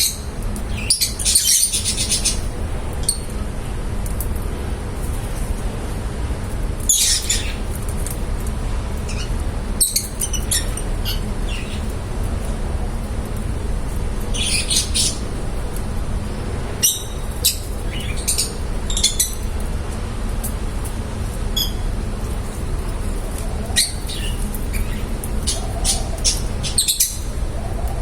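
Lovebirds giving short, high chirps in small clusters every few seconds, over a steady low background rumble.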